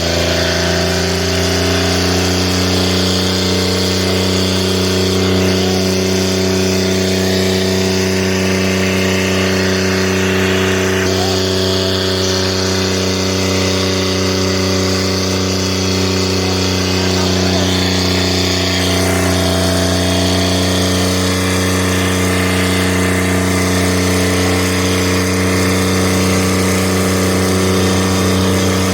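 New Holland tractor diesel engine running at a steady speed, one even drone that holds its pitch without revving up or down.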